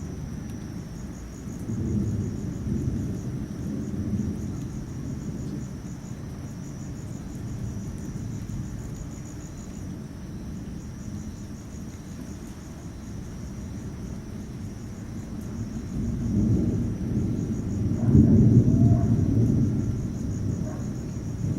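Thunder rumbling low and long in two rolls: one about two seconds in, and a louder one building from about sixteen seconds. Underneath, insects keep up a steady, high, pulsing trill.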